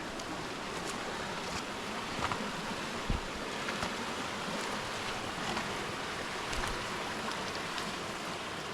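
Steady rush of a rocky mountain stream's flowing water, with a few faint clicks and one low knock about three seconds in.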